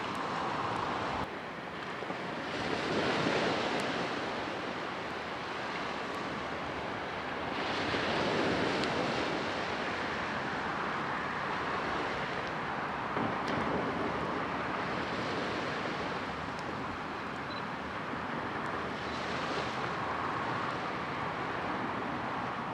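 Ocean waves breaking and washing on the shore, the surf swelling and falling back every several seconds.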